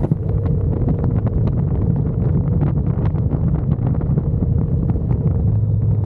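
Wind buffeting the microphone over the steady drone of a motorcycle riding at road speed.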